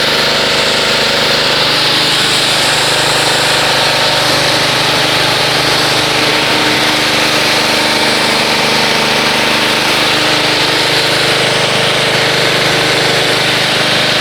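Pressure washer running steadily while its spray gun rinses water over a car: a loud, even hiss of the water jet over the steady hum of the washer's motor and pump.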